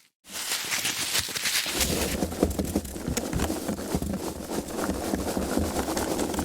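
Foam packaging being handled: a dense stream of small crackles and knocks, with a deeper rubbing rumble joining about two seconds in.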